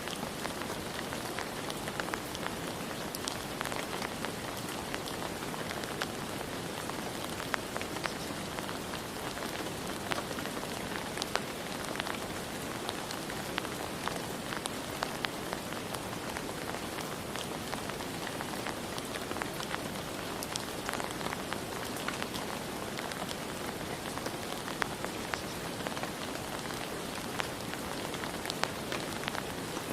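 Steady rain falling, with many individual drops pattering sharply on a surface.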